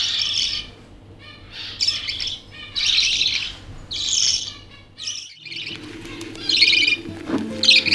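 Budgie chicks chirping in short repeated bursts, about one a second, the begging calls of hand-fed babies. After about five seconds a low steady hum comes in underneath.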